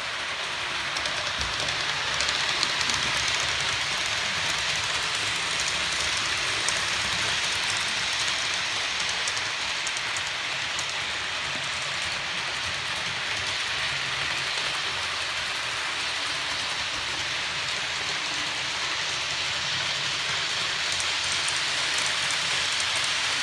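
Hornby OO gauge model HST running steadily with a rake of eight Mark III coaches at about half speed: a continuous hiss and rattle of small metal wheels on the track, with a low hum from the power car's electric motor.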